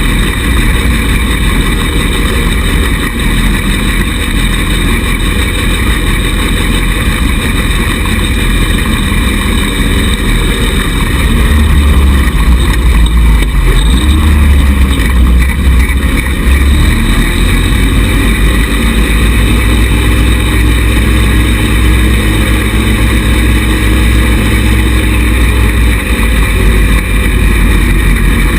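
A 110cc buggy's small engine running steadily while being driven, with a heavy low rumble that gets louder about a third of the way through.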